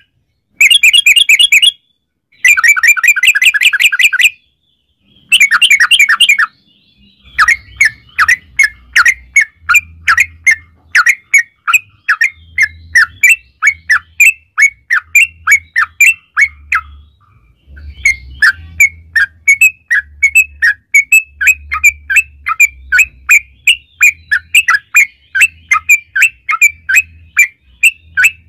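Yellow-vented bulbul (trucukan) calling: rapid bubbling runs of notes in the first few seconds, then after a short pause a long string of quick chirps, about three or four a second.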